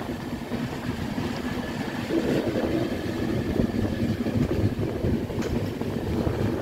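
Passenger train running along the track, heard from an open coach door: a steady rumble of wheels on rails, a little louder from about two seconds in.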